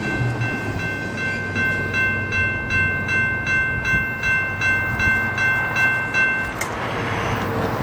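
Railroad crossing bell ringing at about three strokes a second over the rumble of an intermodal train's cars rolling past. The bell cuts off suddenly near the end.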